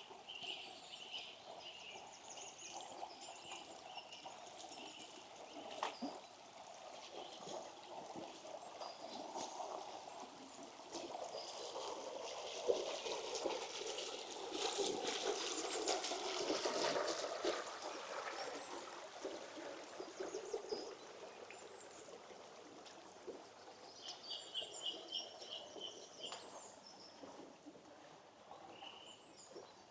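A small shallow stream trickling and running over stones. It grows louder towards the middle and then eases off. Small birds call over it, with a short run of quick repeated chirps near the start and again later on.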